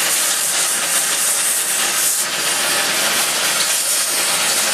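Gas torch flame hissing steadily while it heats steel bar for braiding.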